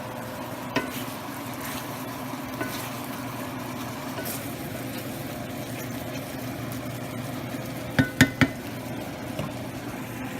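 Chicken sizzling in a frying pan as it is stirred and tossed, a metal utensil clinking on the pan, with three quick sharp taps about eight seconds in. A steady kitchen fan hum runs underneath.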